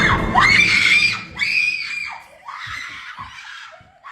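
A loud, shrill scream that rises and falls in pitch for about two seconds, then trails off quieter.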